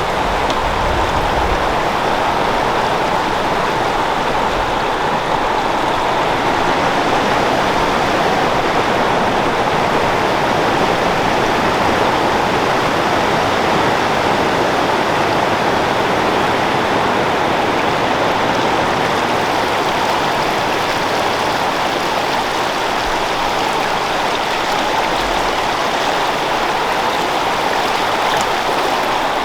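Creek water flowing over rocks, a steady rushing and babbling.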